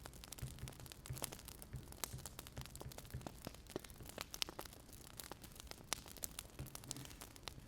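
Wood fire crackling, with irregular sharp pops and snaps over a faint low rumble.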